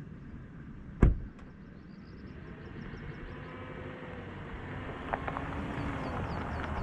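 A car door shuts with one loud thump about a second in. After it, the car's engine and tyre noise grow steadily louder as the vehicle moves off.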